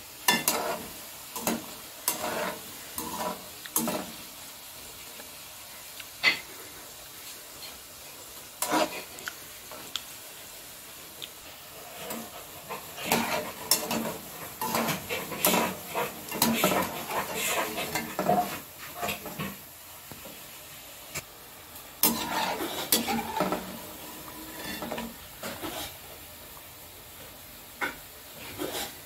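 Dough strips deep-frying in a kadhai of hot oil with a steady sizzle, while a slotted spoon stirs them and clinks and scrapes against the pan. The scraping comes in scattered strokes, busiest through the middle and again about three quarters in.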